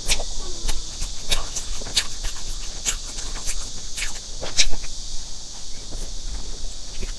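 Close-up chewing of a soft layered cream cake: wet mouth clicks and smacks, the strongest every half second to a second and the loudest about four and a half seconds in, over a steady high hiss.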